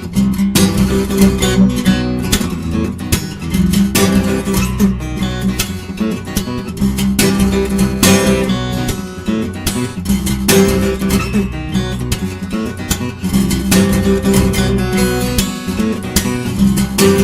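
Acoustic guitar played fingerstyle: plucked melody notes over a repeating bass line, with frequent sharp strummed or percussive attacks.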